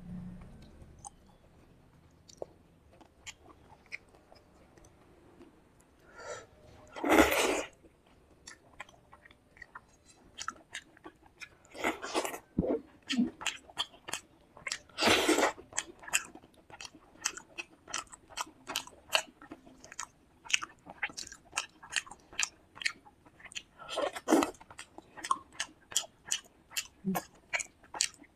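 A person chewing a mouthful of fish curry and rice close to the microphone, with wet mouth clicks and smacks. It is fairly quiet for the first several seconds, then a few louder bites break in, and from about the middle on the smacking comes steadily at two to three a second.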